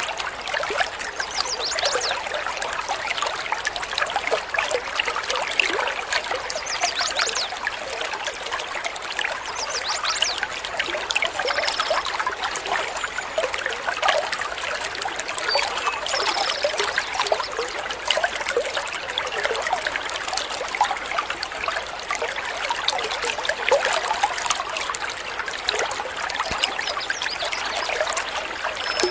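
Water trickling and burbling steadily over stones in a small stream, with a couple of faint high bird chirps.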